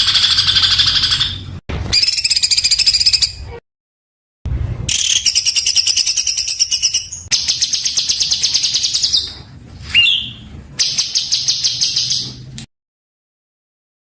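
Songbird singing harsh, rapid-fire bursts of many quick repeated notes in dense phrases, the 'tembakan kasar' style used on master tracks for training cage birds. The phrases are cut apart by abrupt dead silences, one about 4 s in and a longer one near the end, and there is a short sweeping whistle about 10 s in.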